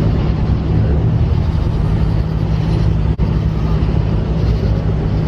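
Car engine idling with a steady low rumble, voices faint in the background.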